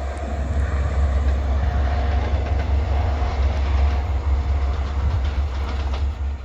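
Passenger train passing: a steady, loud rumble with faint rail clatter.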